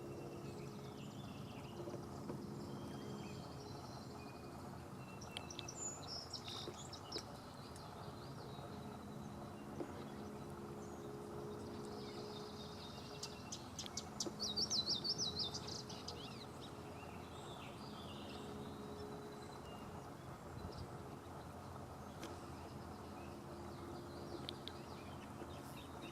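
Scattered high bird chirps, with a louder rapid trilled phrase about halfway through, over a steady low hum.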